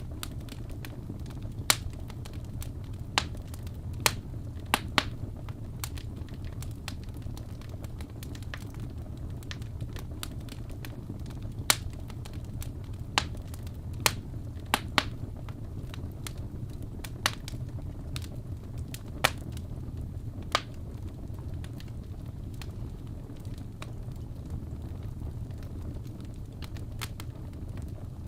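Wood fire crackling in a fireplace: irregular sharp pops, about a dozen loud ones, over a steady low rumble, with fewer pops in the last third.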